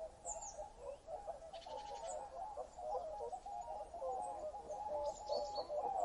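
Birds chirping: short high chirps every second or so and two brief buzzy trills, over a loud, continuous mid-pitched chatter.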